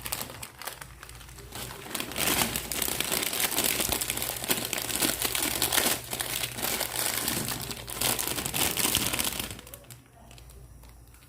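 Plastic food packaging crinkling loudly close to the microphone as it is handled and torn, dying away near the end.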